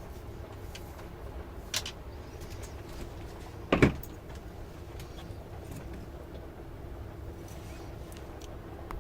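Steady low hum with scattered faint clicks, a sharper click about two seconds in and one loud thud just under four seconds in.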